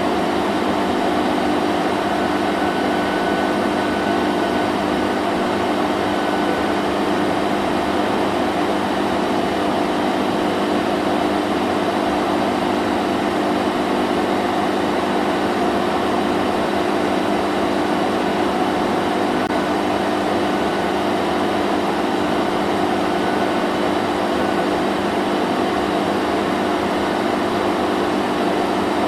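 Vacuum cleaner running steadily: an even motor hum under a broad rushing hiss of air, with no change in pitch or level.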